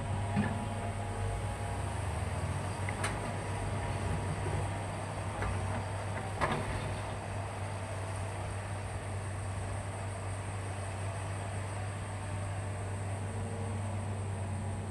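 Hitachi hydraulic excavator's diesel engine running steadily with a low hum, with a few sharp metallic knocks, the loudest about six and a half seconds in.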